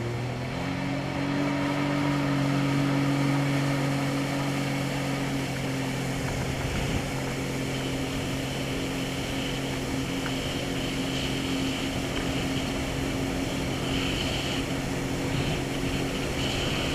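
Jet ski engine speeding up about half a second in, then running steadily under way, over a steady rushing noise.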